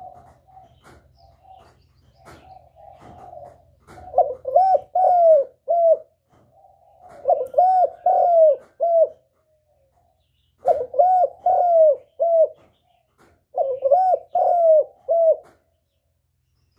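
Spotted dove cooing: soft, low coos for the first few seconds, then four loud song phrases of three to four rounded notes each, separated by short pauses.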